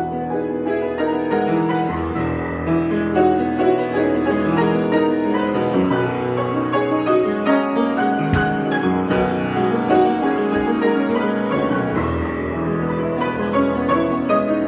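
Piano improvisation: flowing chords over held low bass notes, with one sharp accented note about eight seconds in.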